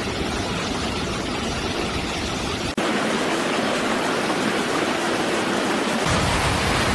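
Steady rush of flowing floodwater, with no distinct events. About three seconds in it cuts abruptly to a louder, brighter rush.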